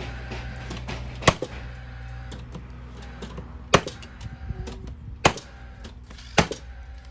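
Four sharp knocks at uneven intervals, a second or two apart, from work on a house's siding, over a steady low hum.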